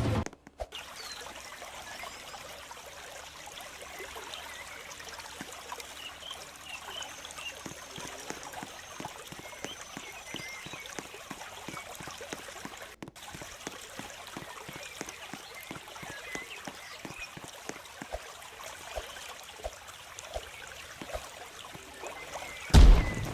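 A steady trickle of running water with many small clicks and a few faint high chirps. A single loud thump comes near the end.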